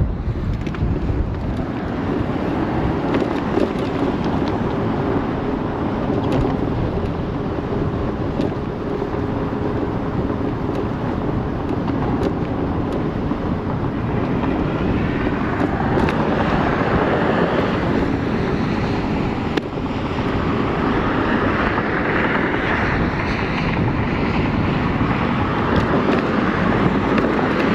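Wind rushing over the microphone while riding an ONYX RCR 80v electric moped, with a steady hum under it through the first half. The wind grows stronger and hissier from about halfway through.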